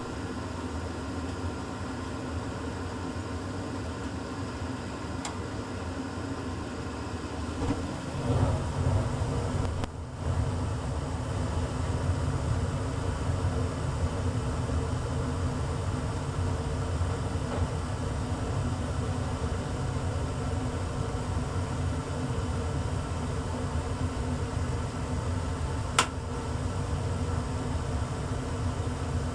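A 1994 Tempstar SP80 gas furnace going through its startup: a steady mechanical hum, and about eight seconds in a louder low rumble sets in and keeps going. One sharp click near the end.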